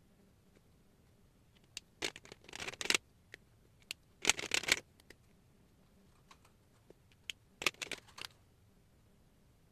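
Pen or marker tip scratching across paper in three short runs of strokes, with a few small taps and clicks between them.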